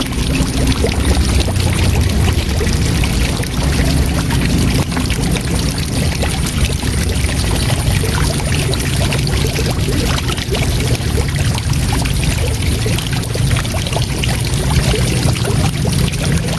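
Waterfall: a steady, unbroken rush of falling water with a strong low rumble.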